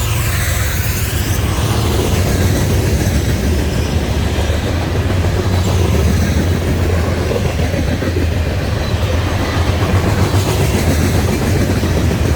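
CSX empty coal train rolling past close by: a loud, steady rumble and clatter of wheels on the rails.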